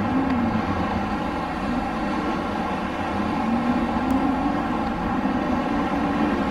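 Wind blowing steadily, with a low whistling howl that wavers up and down in pitch.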